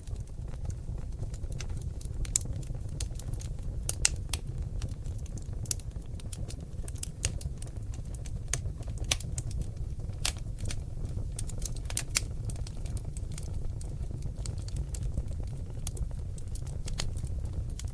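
Seasoned oak logs burning in a fireplace: irregular sharp crackles and pops over a steady low rumble of the flames.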